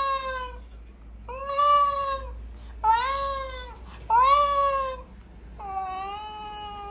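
Ragdoll cat meowing over and over: five drawn-out meows, each about a second long, the first already under way at the start and the last lower and flatter than the others.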